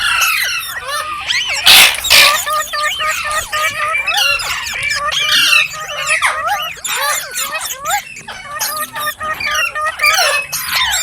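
Indian ringneck parakeet calling continuously in rapid gliding chirps and whistles, with two loud harsh screeches about two seconds in.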